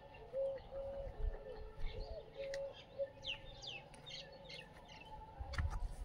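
Birds calling outdoors: a string of short, soft, even-pitched cooing notes for the first few seconds, then a run of quick high chirps, with a low rumble near the end.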